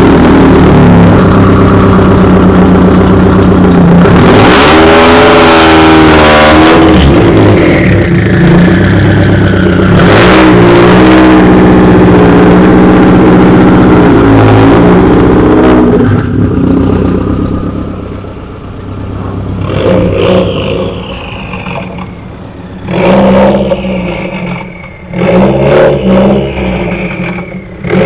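Car exhaust, very loud, revving hard: the engine is held at high revs, its pitch sweeping up and down, for about sixteen seconds, then gives a series of shorter rev blips that rise and drop away.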